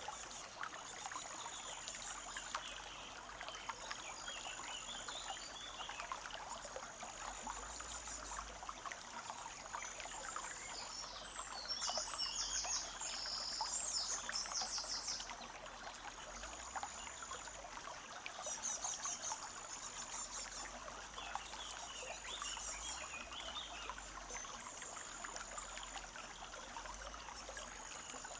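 A small forest stream trickling and burbling steadily over stones. Birds sing high chirping phrases over it, loudest about halfway through.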